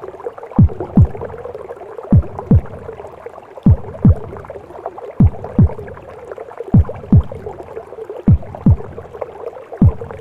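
Womb sound: a mother's heartbeat as a slow double thump, a lub-dub pair about every one and a half seconds, over a steady rushing noise.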